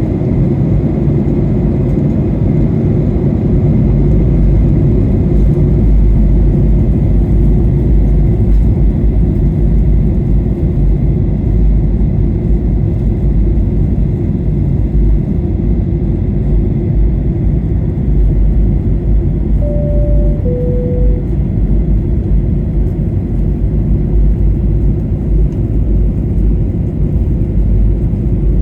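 Steady roar of a Boeing 737-800 airliner's cabin in flight during its descent, the engine and airflow noise heavy in the low end. About twenty seconds in, a two-note falling chime sounds over it from the cabin chime system.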